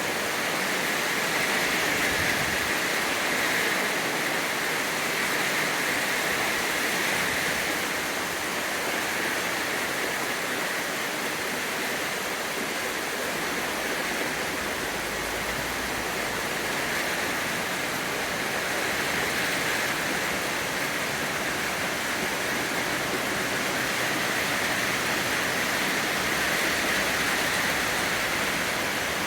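Steady rainfall, a dense even hiss with no separate drops or other sounds standing out.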